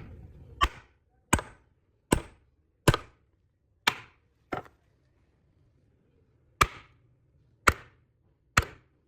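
Woodworking strikes on wood: nine sharp, ringing blows, about one every three-quarters of a second, with a pause of about two seconds in the middle.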